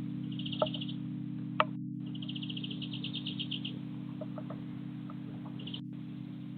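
A small bird calling in rapid trills of short high notes: a brief trill, then a longer one of about a second and a half, and a short burst near the end. Two sharp clicks come early on, over a steady low hum.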